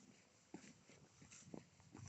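Faint footsteps crunching on a gravel path, two firmer steps about a second apart with lighter scuffs between.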